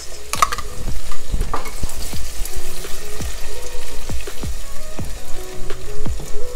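Chopped onions, peppers and tomato paste sizzling in hot oil in a pot while a silicone spatula stirs them, with irregular soft knocks of the stirring. Background music with held notes comes in about two and a half seconds in.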